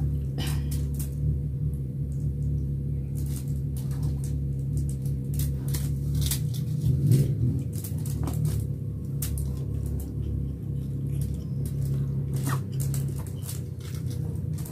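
Eating by hand: scattered soft clicks and rustles from fingers working rice and food on a foil-lined tray, along with chewing and mouth sounds, over a steady low hum.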